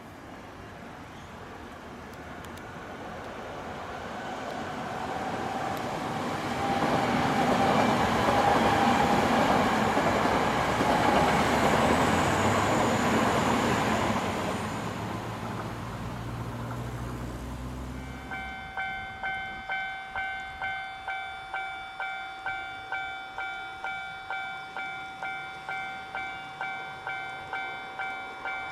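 A Toei Asakusa Line electric commuter train approaches and passes close by, its running noise building to a loud peak and then fading. From about eighteen seconds in, a Japanese level-crossing warning bell rings: a steady, evenly repeating electronic ding.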